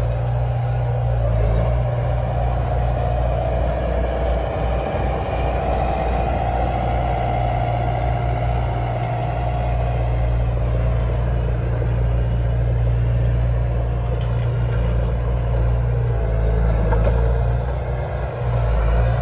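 Heavy machinery diesel engine running steadily, with a higher-pitched whine over it during the first half.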